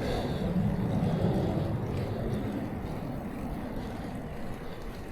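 Steady low rumble of wind and tyre noise from riding a bicycle, fading slightly toward the end.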